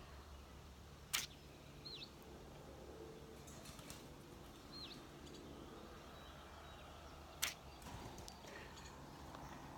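Swallows defending their nest, diving close past. There are two brief, sharp sounds, about a second in and again near the end, with a couple of short chirped calls in between.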